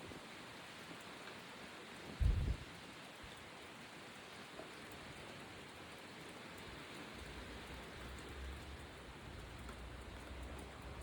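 Steady rain falling, an even hiss. About two seconds in there is a short low thump, and from about seven seconds a low rumble runs beneath the rain.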